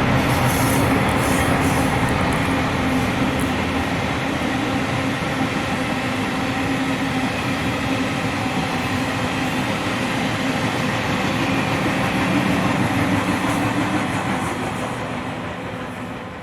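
A train passing close by on the main line: a steady rumble of wheels on track with a steady hum, fading away near the end.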